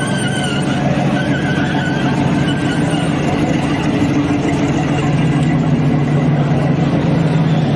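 Motor vehicle engine running steadily amid street noise, with a wavering high tone in roughly the first three seconds.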